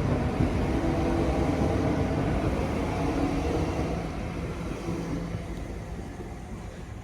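Electric multiple-unit train running on the line, its motor hum and rail rumble fading steadily as it draws away.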